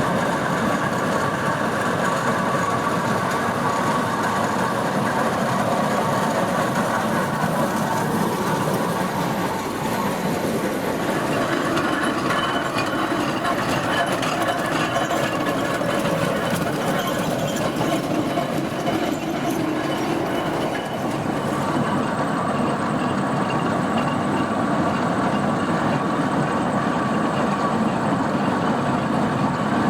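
Steam traction engine running steadily along a road, a continuous mechanical noise with no clear pauses.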